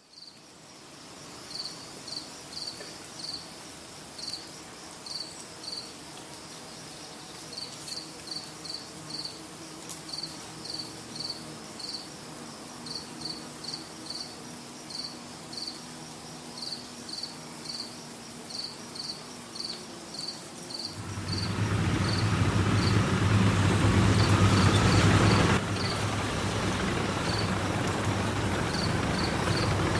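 Crickets chirping in short, high, repeated chirps, one or two a second. About two-thirds of the way through, a loud vehicle engine comes in running steadily with a deep hum, and the crickets carry on over it.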